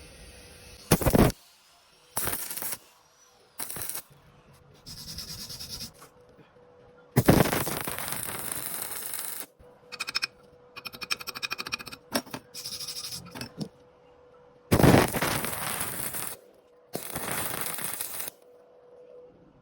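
Bursts of harsh metalworking noise from work on steel rebar, about nine of them, cut one after another with short quiet gaps. A stretch of rapid crackling pulses comes just past the middle, and a faint steady hum lies underneath.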